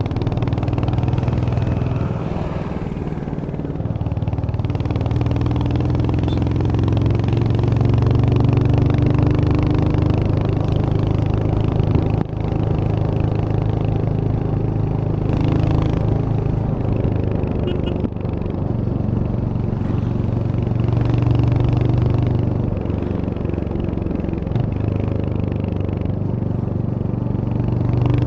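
Royal Enfield Hunter 350's single-cylinder engine running while the motorcycle is ridden, its note swelling and easing several times with the throttle, with some wind noise.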